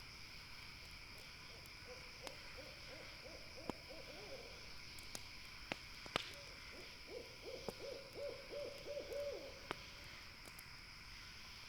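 An owl calling in two quick trilled runs of low hoots, the second longer, over sharp pops and crackles from a campfire and a steady high background chirr.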